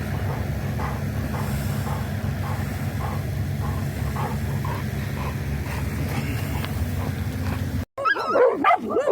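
A steady low rumble with a faint soft pulse about twice a second. It cuts off abruptly near the end, and a dog starts barking and yelping.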